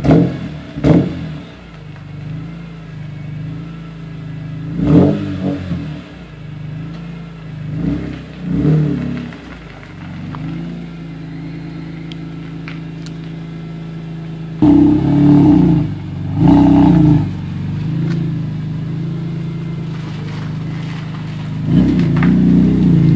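BMW E46 M3's S54 inline-six with an Agency Power aftermarket exhaust, idling steadily and revved in short blips that rise and fall back to idle. There are two quick blips at the start and more around five and eight seconds in. Two longer, louder revs come at about fifteen and seventeen seconds, and another near the end.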